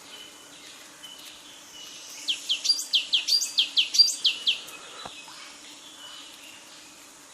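A small bird singing: a quick run of about a dozen high, downward-sliding chirps lasting a couple of seconds, over faint outdoor background noise.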